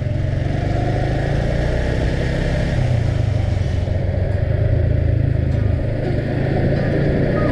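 Motorcycle engine running steadily while riding along, with a low, even hum and road and wind noise.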